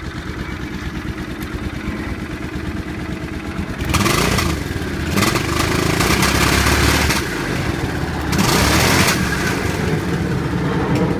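1997 Suzuki VZ800's V-twin engine running at idle and revved three times, about four, five and eight seconds in. It is freshly running again after years in storage, on rebuilt carburettors and a cleaned fuel system.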